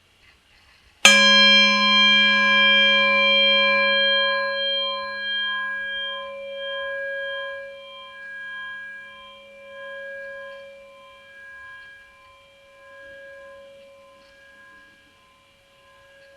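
A Tibetan singing bowl struck once about a second in. It rings with a low tone and several higher tones that pulse as they slowly fade over the next fifteen seconds, and the lowest tone dies out first.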